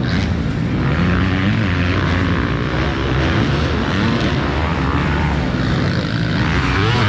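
Motocross bike engines running hard on the race track, pitch rising and falling as the riders work the throttle.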